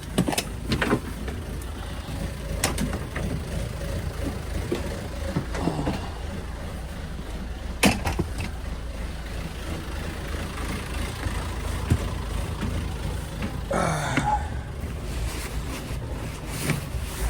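Sailboat's inboard engine idling steadily with a low rumble, with a few sharp clicks and knocks mixed in.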